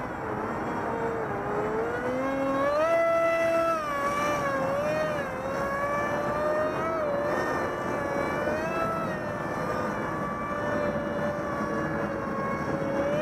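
Electric RC model jet's brushless motor (HeadsUpRC 450 Zoom, 2200 kV) spinning a 6x4 propeller, its whine rising and falling with throttle changes. Steady wind noise on the microphone runs underneath.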